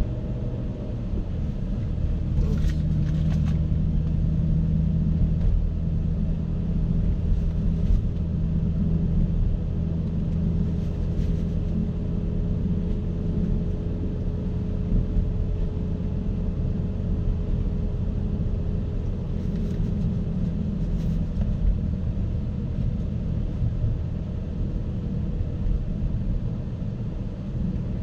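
BMW E60 M5's V10 engine running at low, steady revs while still warming up from a cold start.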